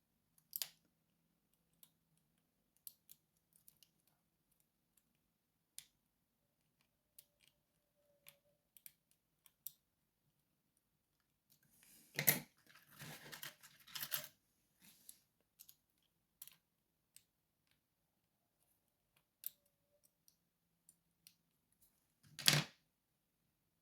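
Lock picking on a lockout-tagout padlock: faint scattered clicks of a hook pick and tensioner working the pins, a short stretch of handling and rattling about halfway through, and one sharper click near the end.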